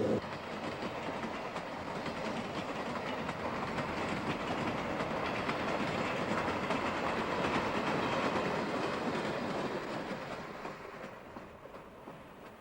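A train's cars rolling past with the clickety-clack of wheels over rail joints. The sound builds to its loudest around the middle, then fades away near the end as the train moves off.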